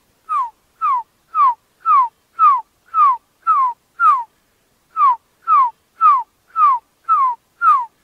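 A forest bird whistling a long series of short, clear notes, each sliding downward, about two a second, with a brief pause a little past halfway.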